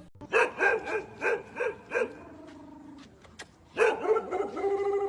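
A dog barking about six times in quick succession, then a quieter low rumble, then one long drawn-out call near the end.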